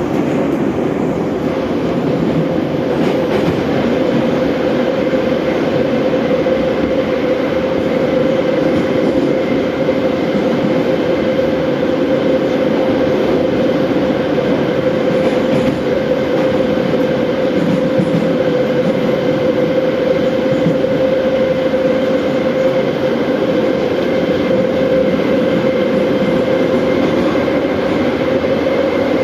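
An 81-717/714 metro train running between stations at a steady speed: an even rumble of wheels and running gear, with a steady tone from the drive that holds its pitch.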